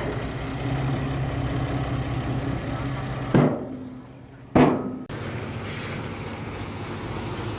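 Diesel engine of heavy earthmoving machinery running steadily. Two sharp, loud knocks come about a second apart midway through, and the drone briefly drops away between them before resuming.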